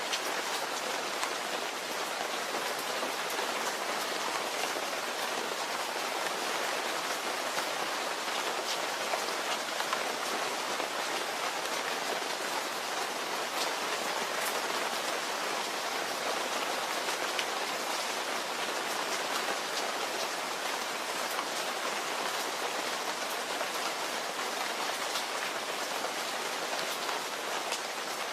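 Steady rainfall, an even hiss of many raindrops with fine scattered patters of individual drops landing.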